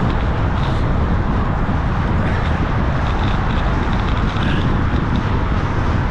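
Steady loud wind noise buffeting the microphone of a camera on a moving bicycle.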